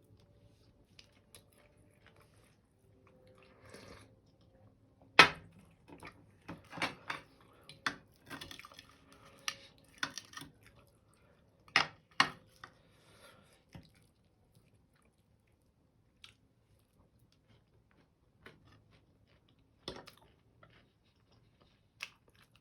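Kitchen clatter: scattered sharp knocks and clinks of dishes and utensils, loudest about five seconds in and twice around twelve seconds, with a busier stretch of handling between about six and eleven seconds.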